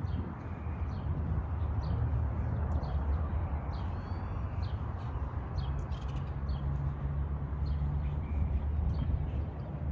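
Outdoor ambience with many small birds chirping in short, scattered calls over a steady low rumble.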